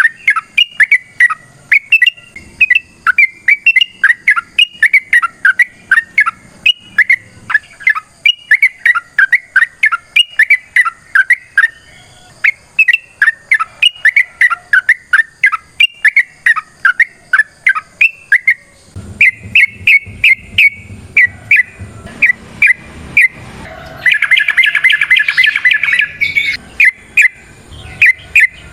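Yellow-vented bulbul (trucukan) singing a long run of short, loud chirps, about three a second. Near the end the song turns into a fast, dense chattering trill.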